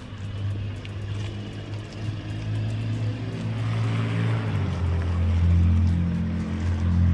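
Car engine running, its low note stepping down and growing louder about four and a half seconds in.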